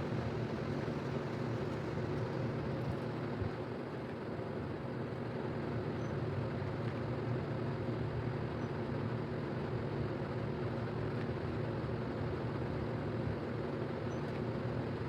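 A steady mechanical hum and rush with no breaks or changes, like a running fan or motor.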